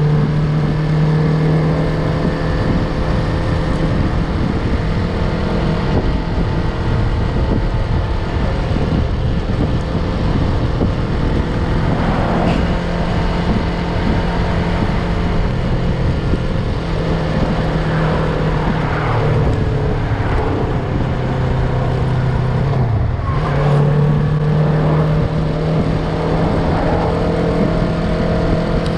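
Yamaha MT-03 motorcycle engine running at steady revs under way, over a rush of wind noise. About 23 seconds in the revs drop briefly and climb again, as at a gear change.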